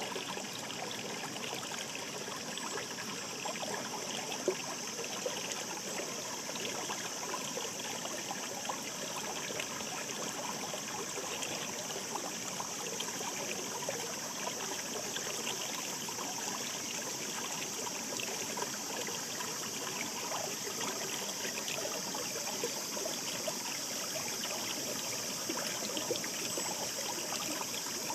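Shallow mountain stream babbling steadily, with small splashes here and there.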